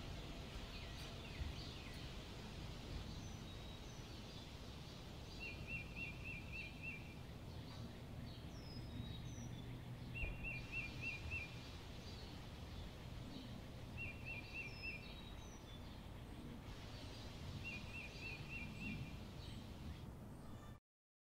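Faint ambient background with birds singing. One bird repeats a short rapid trilled phrase about every four seconds, among scattered higher chirps. The sound cuts off abruptly near the end.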